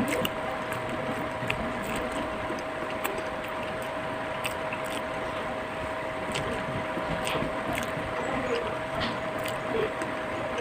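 Eating sounds: scattered small clicks and crunches, about one or two a second, over a steady background hum.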